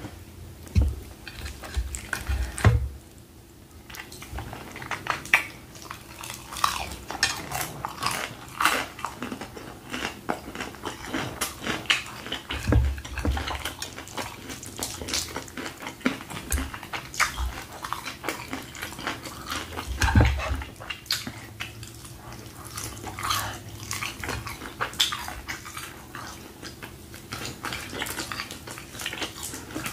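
Close-miked eating of fried chicken: irregular crunching and wet chewing, smacking mouth sounds, and fingers tearing the breaded meat apart, with a few dull low thumps in between.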